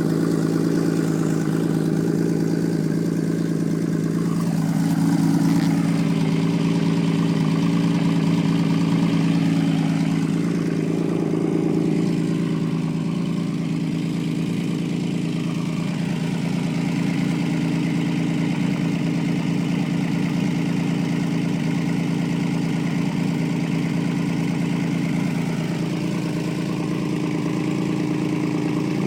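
Honda CBX inline-six motorcycle engine idling steadily, with the engine speed rising a little twice, about five and eleven seconds in, before settling back to idle.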